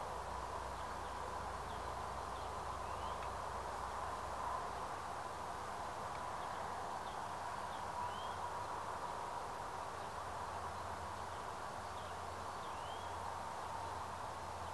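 Steady outdoor hiss with a faint steady high tone, and a small bird's short rising call heard faintly three times, about five seconds apart.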